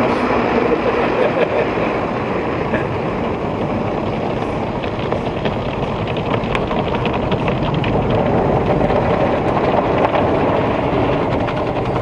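Automatic tunnel car wash working over the car, heard from inside the cabin: a loud, steady rush of water spray and machinery, with a light patter from about five seconds in.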